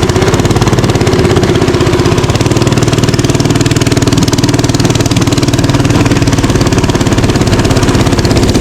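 Small mini bike engine running steadily close by, freshly started, with a fast even putter.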